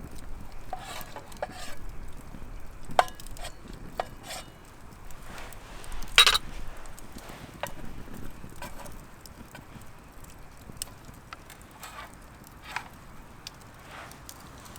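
Metal utensils clinking and scraping in camp cookware: a scattered run of short clicks and scrapes, the loudest about six seconds in.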